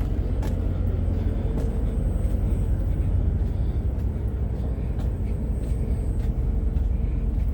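Steady low rumble of a passenger ferry's engines running, with a faint steady hum over it and a few light clicks.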